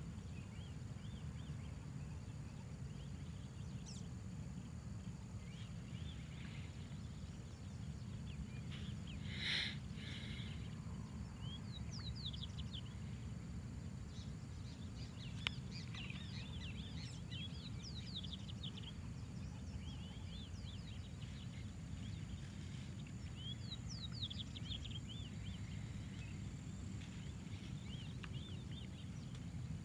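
Birds chirping in many quick, high calls, thickening after the first third, over a steady low rumble.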